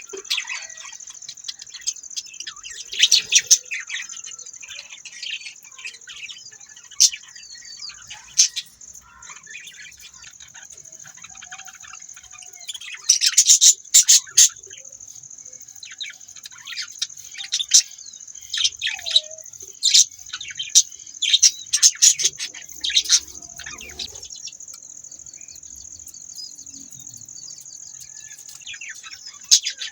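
Budgerigars chirping and chattering in quick bursts, loudest in a cluster about halfway through and again in a run of sharp chirps later on, over a steady high-pitched hiss.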